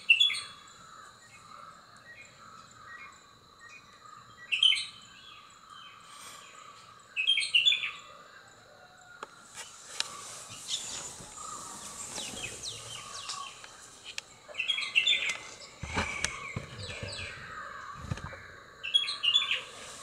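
Birds chirping in short high bursts every few seconds, with a denser stretch of twittering in the middle, over a faint steady high tone. A couple of low thuds come near the end.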